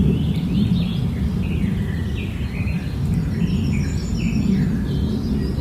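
A baby parrot chirping in short, repeated calls over a steady low rumble.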